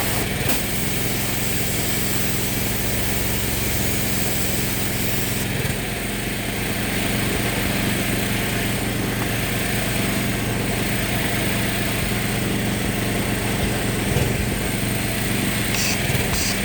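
A machine's motor running steadily, loud throughout, its tone shifting slightly about five and a half seconds in.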